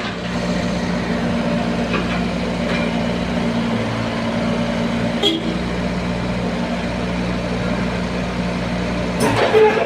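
A heavy engine running steadily at one even pitch. Near the end the sound changes and some clatter comes in.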